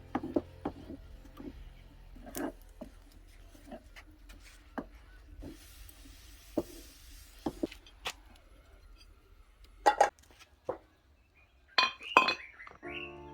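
Dishes and utensils clinking and knocking in a scattered series of separate taps, a few with a short ring, and a soft hiss for about two seconds midway.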